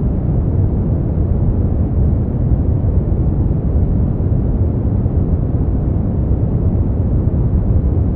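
Steady sleep-aid noise track, a deep, even rumble with its weight low and almost no hiss in the highs, closer to brown noise than true white noise despite being billed as white noise. It holds level, with no changes or separate sounds.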